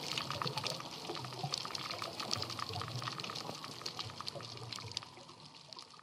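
Underwater reef ambience: a dense crackle of countless tiny clicks with a faint low hum, fading out near the end.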